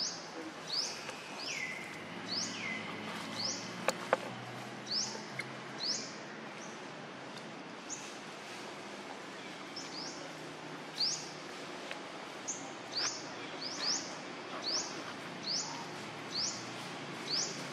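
A bird calling over and over with short, high, rising chirps, now singly, now two or three in quick succession, over steady outdoor background noise. Two sharp clicks come close together about four seconds in.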